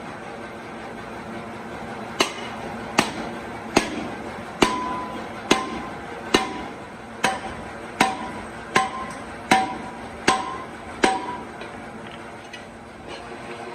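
Hammer striking metal, about a dozen evenly paced blows a little under a second apart, each with a short metallic ring. The blows start about two seconds in and stop near the end, over a steady workshop hum.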